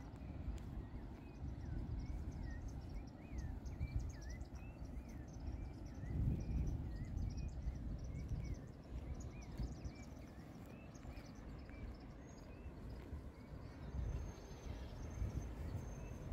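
Birds chirping with many short rising and falling calls over a low, uneven rumble that swells now and then. Near the end, a thin high note repeats in short dashes.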